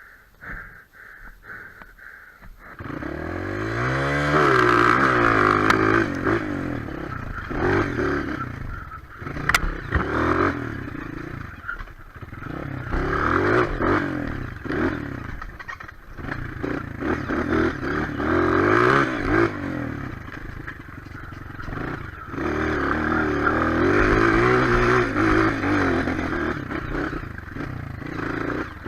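Single-cylinder four-stroke trail motorcycle engine revving and easing off in repeated surges under way, after a quieter first couple of seconds. A sharp knock about ten seconds in.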